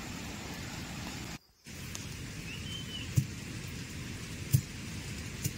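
Steady monsoon rain, with a few soft low thumps and a brief high chirp about halfway through. The sound cuts out for a moment about one and a half seconds in.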